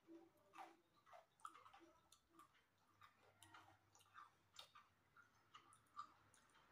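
Faint chewing: soft, irregular mouth clicks and smacks of two people eating pitha, against a very quiet room.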